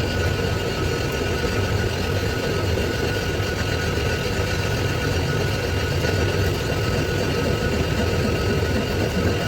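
A workshop machine running steadily: a low hum with a thin, steady whine above it.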